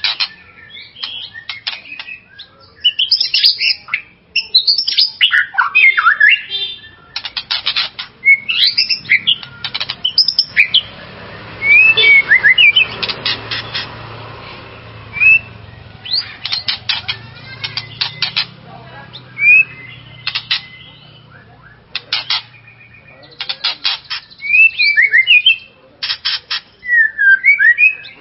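White-rumped shama (murai batu) singing: a varied song of loud whistled, gliding notes mixed with fast rattling strings of repeated notes, delivered in bursts with short pauses between them.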